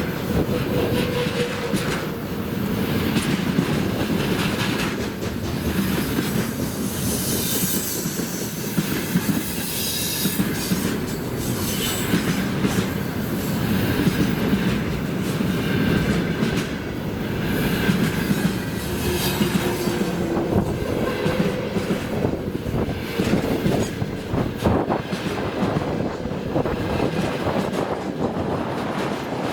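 Freight train wagons rolling past steadily, wheels clattering over the rail joints, with thin bursts of wheel squeal now and then.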